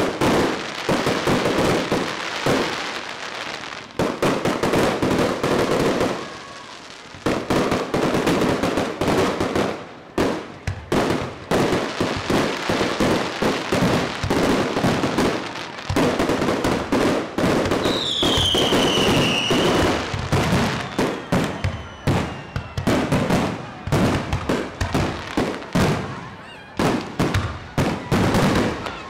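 Fireworks display: a dense, rapid run of bangs and crackles from aerial shells, with a brief lull about six seconds in. A falling whistle cuts through about two-thirds of the way in.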